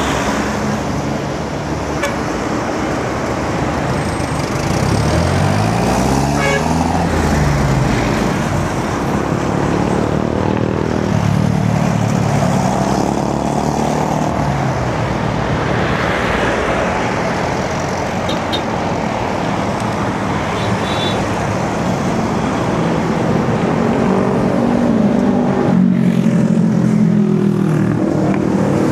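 Road traffic passing close by: a steady wash of vehicle engines and tyre noise, with one engine revving up and easing back about five to seven seconds in.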